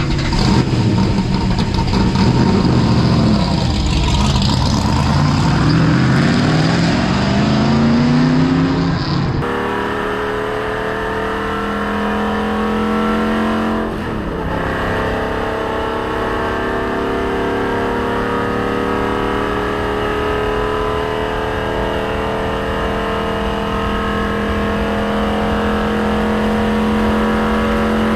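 NASCAR stock car's V8 engine heard from inside the car, accelerating hard through the gears in a series of rising sweeps for about the first nine seconds. It then holds a loud, steady high-speed note that climbs slowly in pitch as the car runs flat out around the track.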